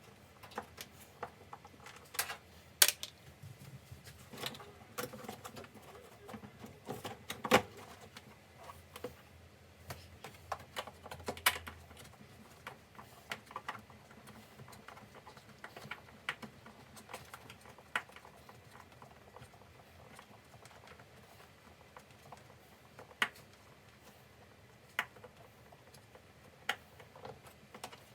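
Scattered light clicks and knocks at irregular intervals, a few sharper ones among them, with no steady sound underneath.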